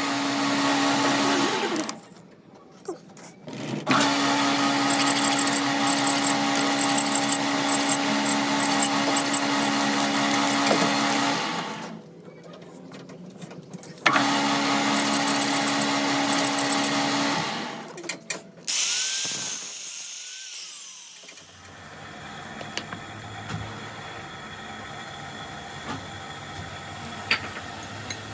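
An electric power tool motor running in three bursts, the longest about seven seconds, with short quiet gaps between them. After the third burst the sound falls away to a quieter steady hum.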